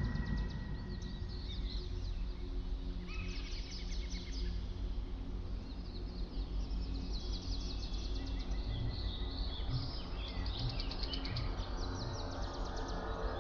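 Small birds chirping and trilling in a busy chorus, over a steady low background hum.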